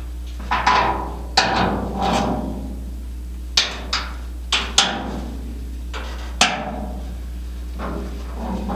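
A series of irregular, sharp knocks and clanks with short ringing tails, about nine in all, over a steady low hum.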